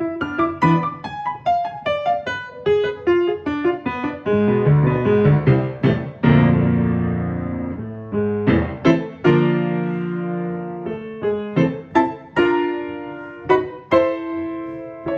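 Piano playing quick detached notes, then a low rumbling passage with a loud chord struck about six seconds in that rings for a couple of seconds, then quick chords again.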